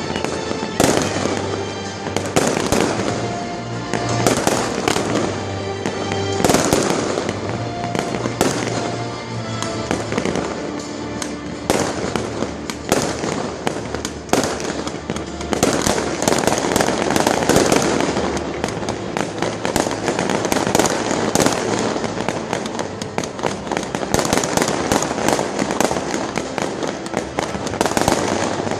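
A fireworks display set to music: shells bang and crackle in rapid, overlapping succession over loud accompanying music, with a dense stretch of crackling about halfway through.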